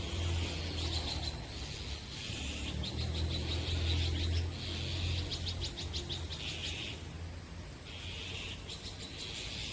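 Songbirds singing in repeated quick trilled phrases, each about a second long, over a steady high tone and a low hum.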